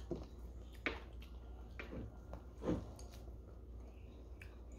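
Open-mouthed chewing of barbecue ribs, with a few soft wet smacks over the first three seconds; the mouth is kept open around dental retainers.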